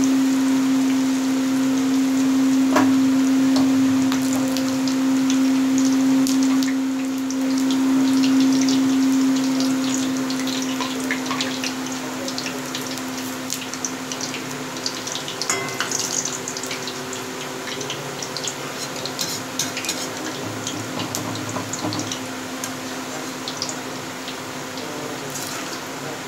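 Malpua frying in a kadhai of hot oil: steady sizzling with scattered crackles that get more frequent about halfway through, while a slotted spoon stirs and bastes them. A steady mechanical hum runs underneath.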